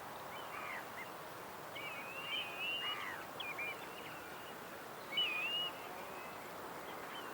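Bird whistles and short warbling chirps in scattered phrases, over a faint steady hiss.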